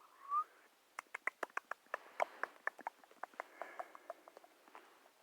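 A short rising whistle-like tone, then an irregular run of sharp, quick clicks and taps, several a second.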